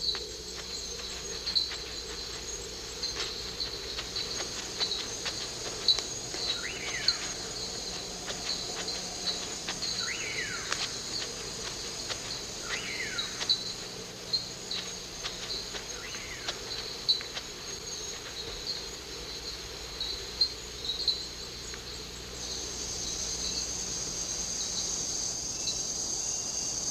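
Night chorus of rainforest insects: cricket-like chirps repeat about twice a second over a steady high trill, which grows louder near the end. Through the middle, another call falling in pitch comes about every three seconds.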